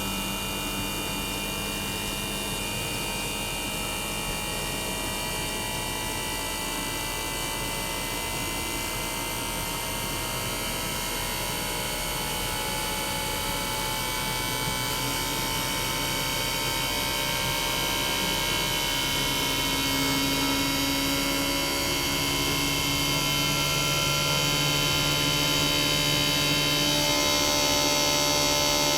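Toshiba twin rotary inverter compressor (DA91A1F-42F) of a 1998 RAS-285LADR air conditioner outdoor unit running, heard raw without its sound-deadening material: a steady hum with a chord of whining inverter tones. Partway through, some tones step to new pitches and the sound grows gradually louder.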